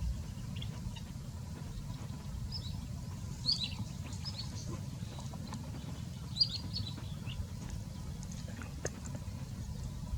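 Short, high chirps from a small bird in two quick clusters, about two and a half seconds in and again about six seconds in, over a steady low rumble.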